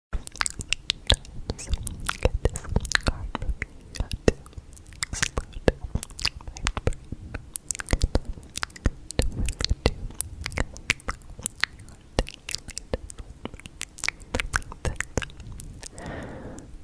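Close-miked ASMR noises: a dense, irregular run of sharp clicks and crackles, with a short breathy sound near the end.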